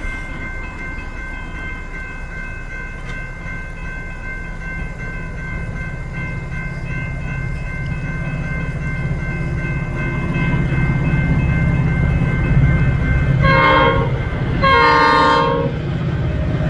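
Metra commuter train approaching, its low rumble building steadily, then sounding two horn blasts of about a second each near the end.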